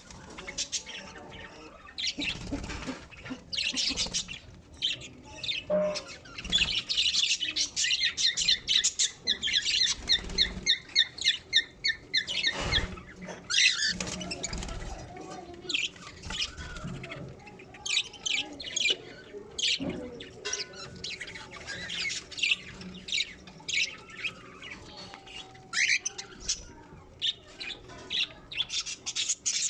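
Budgerigars chirping and chattering: many short, sharp high chirps, with a fast run of rapidly repeated notes from about seven to twelve seconds in.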